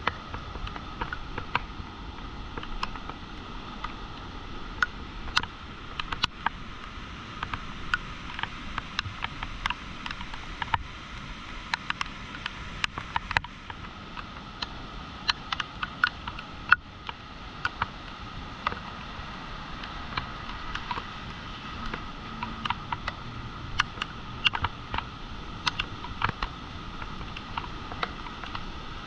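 Steady rush of swollen floodwater, with many irregular sharp clicks and taps over it.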